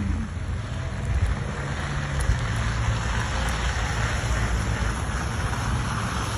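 Wind on the microphone over a steady low rumble, with a faint hum like a vehicle engine underneath.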